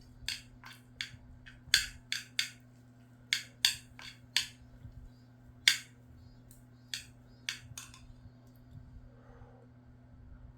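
Eating utensils clicking and tapping against a dish, sharp irregular clicks several a second at first and sparser in the second half, over a steady low hum.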